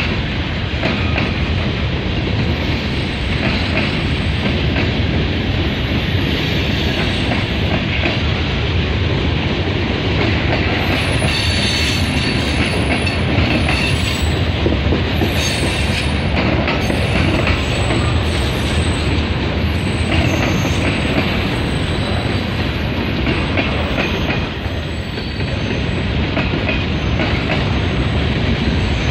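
Cars of a mixed freight train rolling steadily past close by: the continuous rumble and rattle of steel wheels on rail, clicking over the rail joints. Faint high-pitched wheel squeal comes and goes through the middle stretch.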